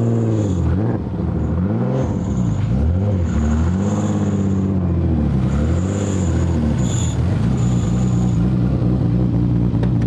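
Engine of a BMW E46 Touring drift car, built to some 700–800 hp, idling steadily.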